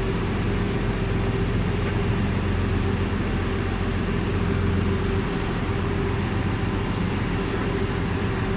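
Boat engine running steadily: a constant low rumble with a steady hum over it.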